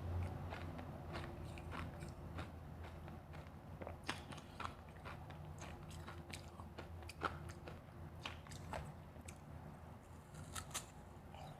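Close-up chewing of refrozen powdery freezer ice, with irregular small crunches and crackles as it is bitten and ground between the teeth.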